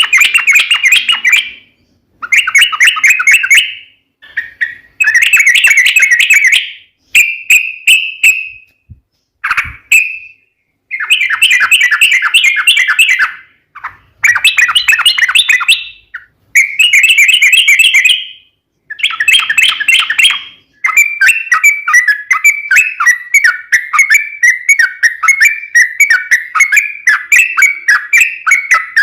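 Yellow-vented bulbul (trucukan) singing loudly in a gacor style. It gives bursts of rapid, bubbling chirps of a second or two each with short pauses between. About two-thirds of the way in it breaks into a long unbroken run of fast, evenly repeated notes, the 'ropel panjang' song used to lure other bulbuls into answering.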